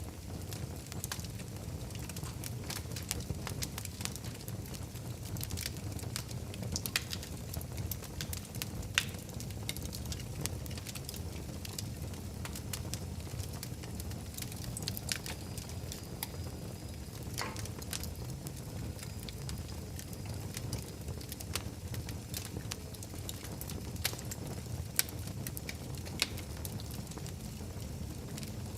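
Wood fire burning in a fireplace: a steady low rumble of flames with constant small crackles and a few sharper pops.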